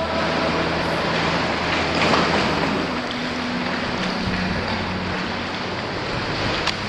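Sea washing and wind on the microphone, a steady rushing noise from the water around a sea kayak, with one sharp click near the end.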